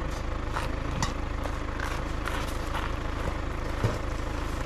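A steady low engine rumble with a few faint clicks, and a single sharp knock near the end.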